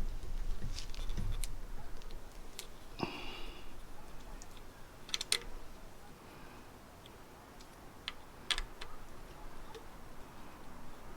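Scattered light clicks and taps of hand tools working on a bicycle's front brake as it is undone, with a brief squeak about three seconds in.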